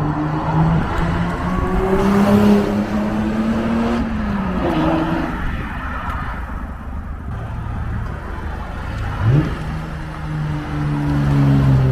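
Lexus SC300's 2JZ-GE inline-six through an exhaust with the mufflers deleted (resonators still in place), driving around: the note climbs over the first two seconds, drops away about four seconds in, gives a quick rev blip around nine seconds in, then holds steady.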